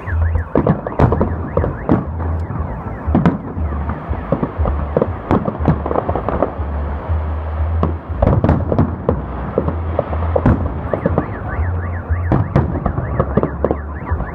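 Fireworks salute going off: many sharp bangs and crackles in quick clusters. A car alarm warbles near the end.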